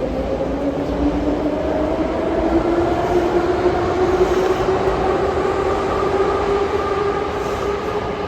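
Moscow metro train's traction motors whining as the train picks up speed, the pitch rising steadily and levelling off near the end, over the low rumble of the running gear.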